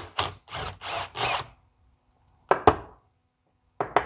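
A tool working the fasteners on a diesel injection pump: several short rasping bursts of tool noise in quick succession, then two sharp metallic clicks and a quick run of clicks near the end.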